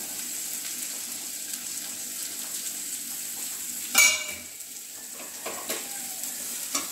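Oil sizzling in a kadhai as cubed mooli (white radish) is added to fried onions. About four seconds in comes a sharp metal clank with a brief ring, then a few lighter knocks over the continuing sizzle.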